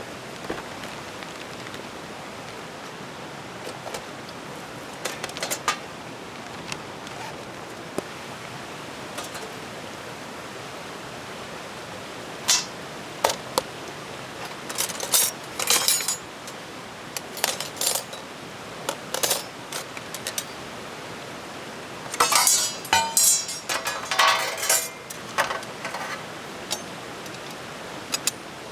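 Metal parts of a Guru Guru Fire pit clinking and clattering together as it is assembled: scattered sharp clinks, coming in quick clusters from about halfway through, over a steady hiss.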